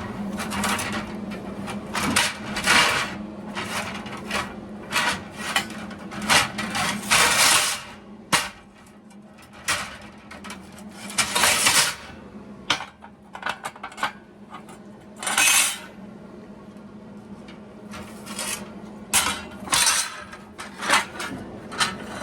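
Pieces of thin sheet metal being handled and set out, with irregular clanks, clinks and short scrapes of metal on metal over a steady low hum.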